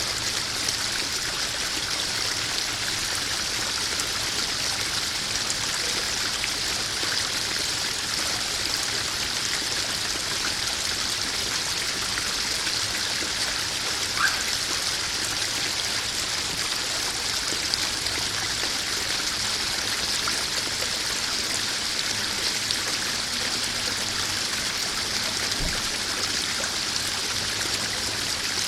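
Small garden waterfall splashing steadily into a koi pond, an even rushing and trickling of water. A short faint chirp about halfway through.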